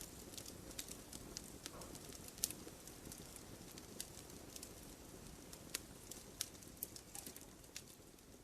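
Wood fire burning: a low steady rush with irregular sharp crackles and pops, one pop louder than the rest about two and a half seconds in.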